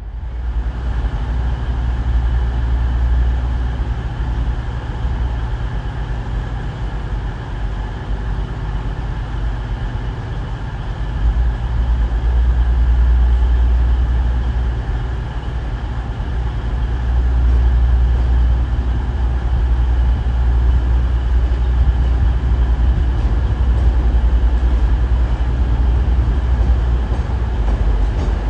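A train running close by: a steady low engine rumble with faint steady whining tones above it, growing louder about eleven seconds in and again later.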